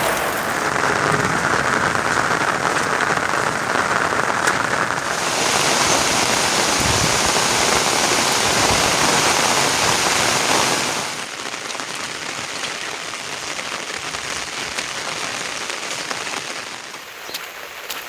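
Steady rainfall, its sound changing abruptly about five seconds in and turning quieter about eleven seconds in.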